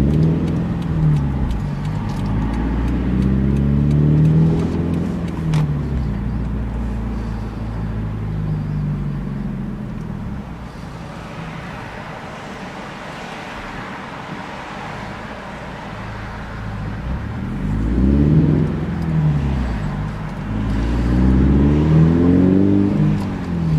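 Car with an aftermarket cat-back exhaust accelerating hard, the exhaust note rising and dropping back with each gear change, heard through open windows. It eases to a quieter cruise with road rush in the middle, then revs up through the gears again near the end.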